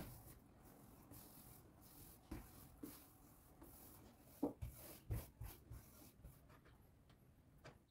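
Faint kitchen handling sounds: scattered soft taps and knocks with light rubbing, the loudest knocks about four and a half and five seconds in.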